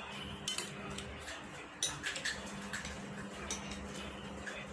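Metal spoon clinking against a plate several times during a meal of rice, with a few sharp taps, over a low steady hum.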